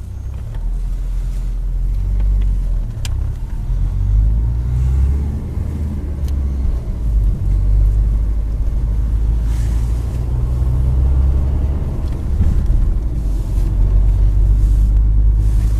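Car on the move in slow city traffic: a strong, steady low rumble of engine and road noise that swells and eases a little, with a few faint ticks.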